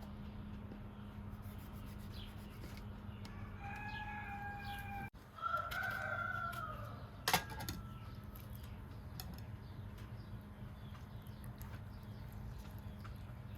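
A rooster crowing once, a pitched call of a few seconds broken by an abrupt dropout midway, over a steady low hum. A single sharp click follows soon after the crow.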